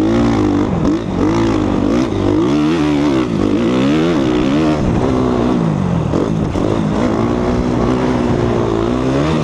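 Suzuki RMZ250 four-stroke single-cylinder dirt bike engine being ridden hard. It revs up and drops back again and again, its pitch rising and falling every second or two.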